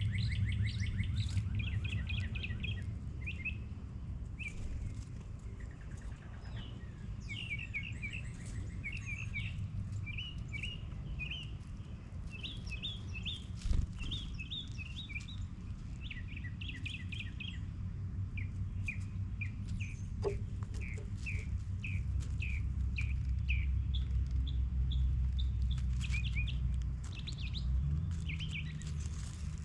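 Small songbirds chirping, with many short, rapid chirps repeated and overlapping, over a steady low rumble. A single sharp knock comes about halfway through.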